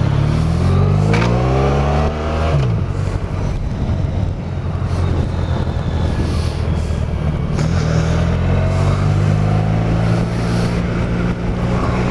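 Adventure motorcycle engine accelerating under way: the revs climb for about two seconds, drop at a gear change about 2.5 s in, then pull on and rise again near the end, with steady wind and road rush over it.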